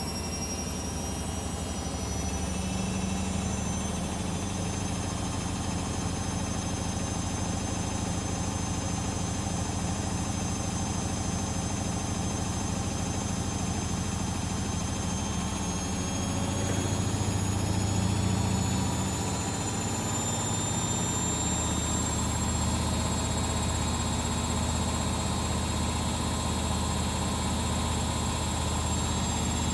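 DEXP washing machine on its spin cycle, up to 1000 rpm. The motor hums and the drum rumbles steadily, with a high whine that slowly rises in pitch as the drum speeds up. A louder low rumble swells for a few seconds around the middle.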